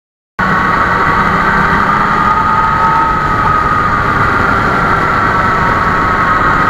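A 2020 Yamaha MT-09's three-cylinder engine running steadily. It cuts in suddenly, about half a second in, and holds an even pitch and level.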